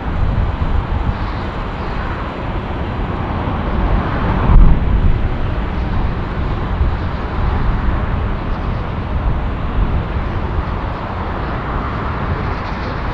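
Jet airliner engine noise: a steady rumble that swells briefly to its loudest about four and a half seconds in.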